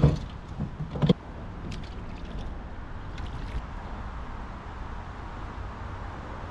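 Two sharp knocks on a kayak, about a second apart, with a few faint clicks, over a steady low rumble.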